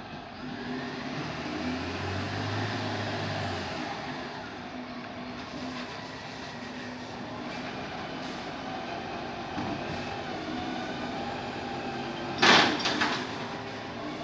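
Garbage truck's diesel engine running steadily, louder in the first few seconds, with a short, loud burst of noise about twelve seconds in.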